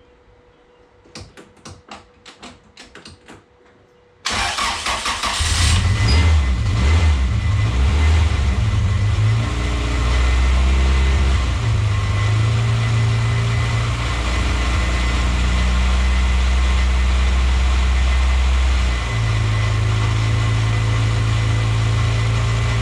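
A few sharp clicks, then about four seconds in a freshly rebuilt Honda H22A 2.2-litre DOHC four-cylinder (new pistons and rings, balance shafts deleted) starts and runs at idle. The idle steps up and down several times, the hunting the owner puts down to idle control valve (ICV) trouble.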